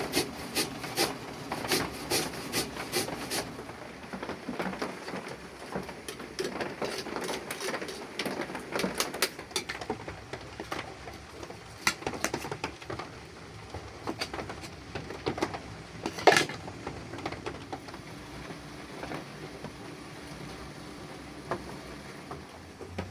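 Kitchen work sounds: a quick, regular run of knocks at first, like a knife chopping on a board, then scattered clinks and knocks of utensils and cookware, with one loud sharp clank about sixteen seconds in.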